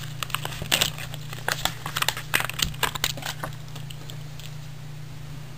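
Plastic blister pack and cardboard backing of a Hot Wheels package crinkling and tearing as the die-cast car is pulled out: a run of sharp crackles and clicks over the first three seconds, then fading out over a low steady hum.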